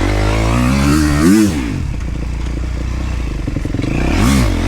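Dirt bike engine revving hard about a second in and dropping back, then running lower before the revs rise again near the end.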